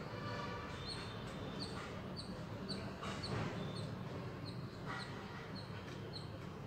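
A small bird chirping over and over, short high chirps about two a second, over a low steady hum.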